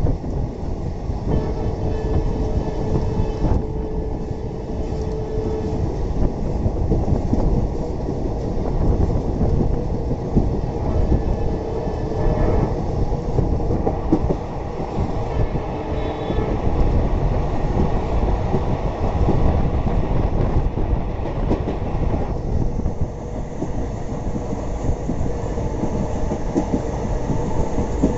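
Passenger train running along the track, a steady rumble of wheels on rails with clicks over the rail joints, heard from aboard the coach.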